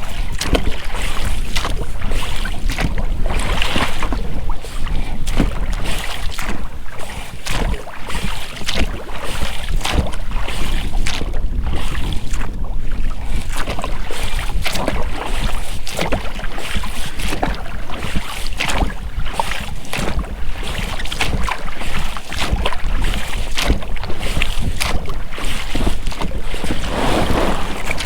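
Oars working the water from an inflatable rowing boat: repeated splashes and drips with the rub of rubber rowlocks, over a steady low rumble of wind on the microphone.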